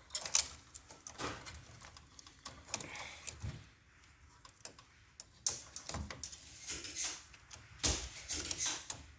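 Scattered clicks, taps and light clatter of small plastic and metal parts being handled while a copier's drive assembly is taken apart.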